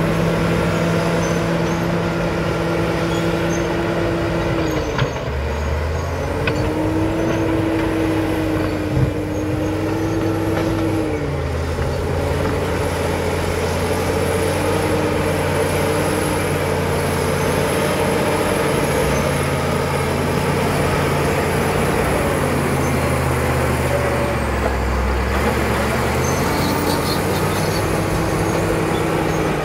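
Caterpillar D7 bulldozer's diesel engine working, its note dipping and recovering several times as it takes and sheds load, with a high whine that rises and falls with the engine and a few light knocks.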